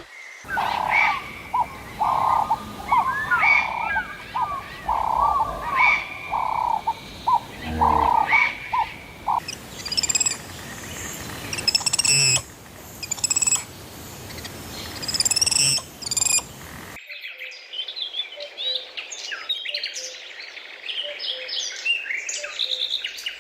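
Birds calling and chirping, in several recordings joined back to back. The first part is a run of short, evenly repeated calls under gliding chirps. From about ten seconds in come high, quick chirps, and a sudden cut at about seventeen seconds brings in a different chorus of chirping.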